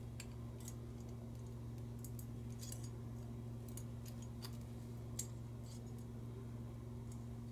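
Light, scattered clicks and taps of small hand tools and parts being handled on a lighter, about ten in all, over a steady low hum.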